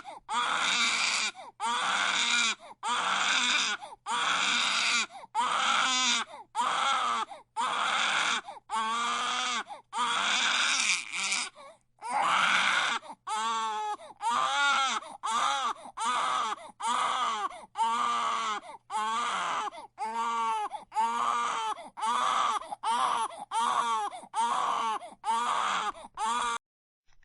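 A baby crying in a steady run of short wails, a little more than one a second, with quick breaths between them. The cries sound rougher at first and turn into clearer pitched wails about halfway through.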